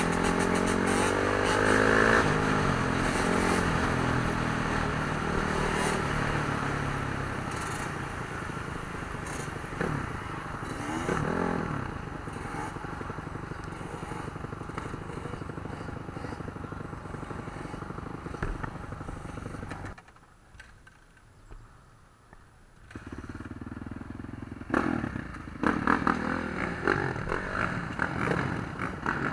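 Dirt bike engines revving and running, their pitch rising and falling with the throttle. The engines drop away to quiet for a few seconds about two-thirds of the way through, then come back.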